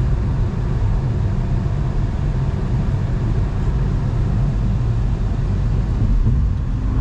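Steady low road and engine noise heard inside the cabin of a car driving at speed.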